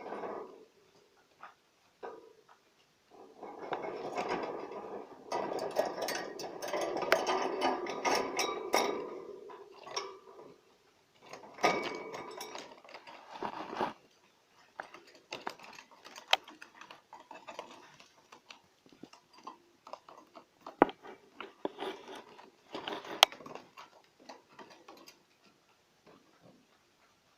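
Male budgerigar's courtship warble: a long stretch of rapid chattering and clicking, a shorter second burst, then scattered clicks and short chirps.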